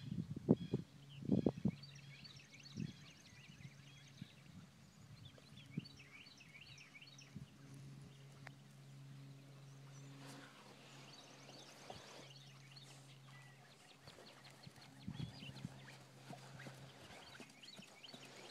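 Faint outdoor ambience of birds chirping and trilling in two spells, one early and one from about ten seconds in, over a steady low hum, with a few short knocks in the first second or two.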